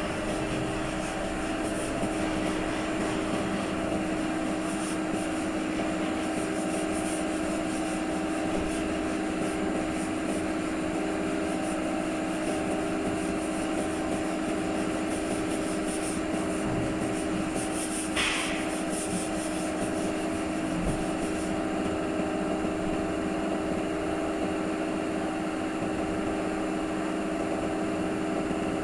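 A motor running at a steady speed, a constant machine drone, with on-and-off high hiss through the first two-thirds and a short higher sound about two-thirds of the way in.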